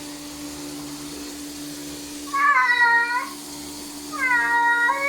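Domestic cat meowing twice, two long drawn-out meows about a second apart, the first sliding down in pitch: a cat protesting at being bathed. A steady low hum runs underneath.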